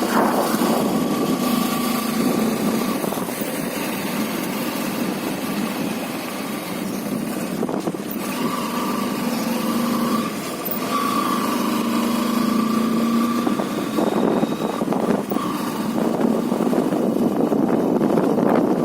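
Motorcycle engine running while riding, its note coming and going in stretches over a steady rush of wind noise.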